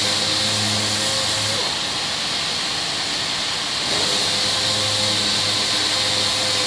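Power sander running steadily with a loud hiss, dry-sanding auto body paint; its motor tone and hum drop away for about two seconds partway through, then come back.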